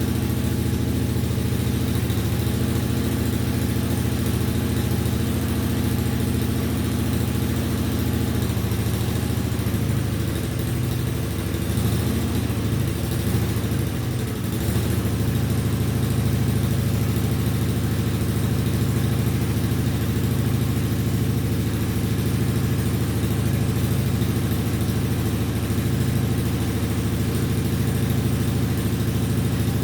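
Engine running steadily at idle; about ten seconds in its speed sags and wavers for a few seconds, then steadies again.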